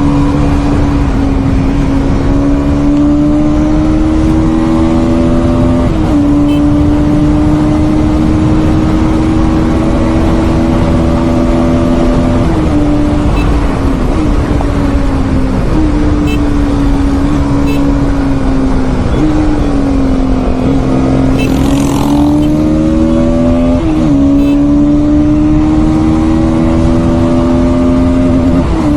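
Bajaj Pulsar NS200's single-cylinder engine running hard at highway speed, heard from on the bike with wind rush over the microphone. Its note climbs slowly and dips sharply every few seconds as the throttle eases and reopens.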